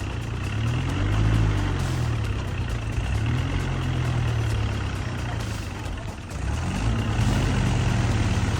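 Tractor engine running under load, its revs rising and falling, and picking up and getting louder about seven seconds in.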